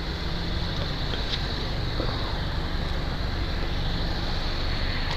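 Helicopter circling overhead, a steady low thrum of rotor and engine.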